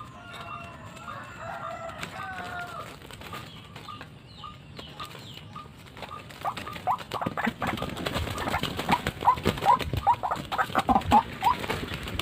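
White-breasted waterhen calling: a run of short, repeated notes that grows louder and quicker over the second half, amid rustling and clicking.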